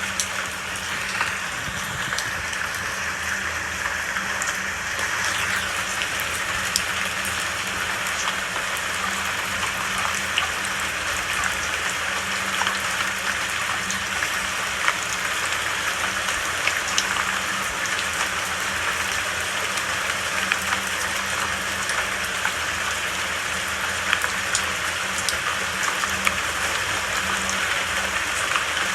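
Steady rainfall, a dense even hiss with scattered individual drops ticking throughout.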